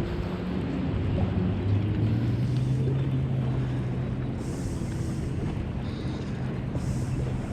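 A boat engine running with a steady low hum that rises slightly in pitch about two seconds in, with wind on the microphone.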